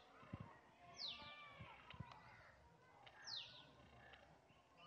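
Faint bird calls: a sharp, high down-slurred call, twice about two seconds apart, with fainter chirping from other birds underneath.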